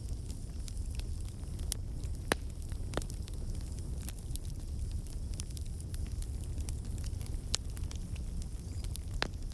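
Campfire burning: a steady low rumble of flames with irregular sharp crackles and pops of burning wood, a few louder pops among them.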